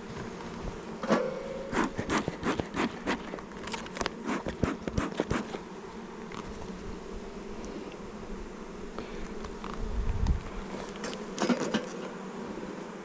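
Honey bees buzzing steadily at an open hive. Over it come a quick run of sharp clicks and knocks in the first half and a few more near the end, from hive frames and parts being handled, with a low thump shortly before.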